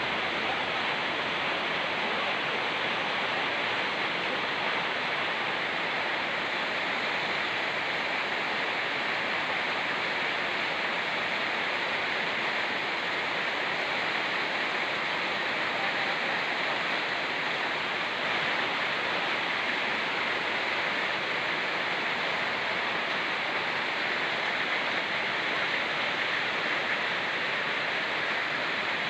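Steady rush of a fast-flowing mountain river with rain falling, an even hiss that does not change.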